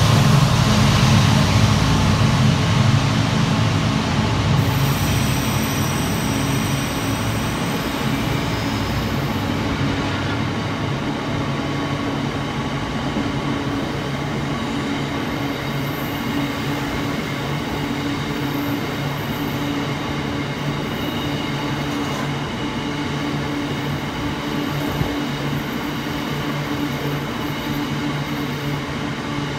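Colas Rail Class 70 diesel freight locomotives pass with their engines running, and the low engine note fades over the first ten seconds. A long rake of box wagons follows, rolling past with a steady wheel rumble and thin, high wheel squeals, and a steady low hum grows in the second half.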